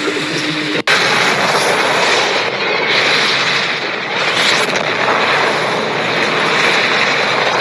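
Loud, steady rushing noise with no distinct tones, broken off for an instant about a second in and then carrying on evenly.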